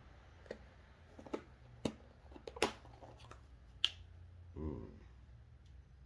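Irregular sharp clicks and snaps of hand tools and wire being worked, about eight over three seconds, then a brief voiced hum near the end.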